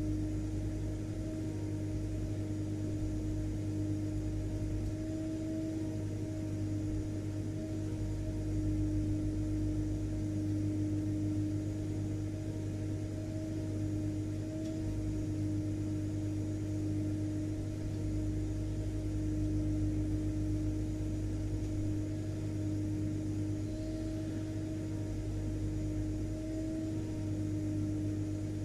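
Vacuum cleaner running steadily, its motor giving a constant hum over a rushing drone.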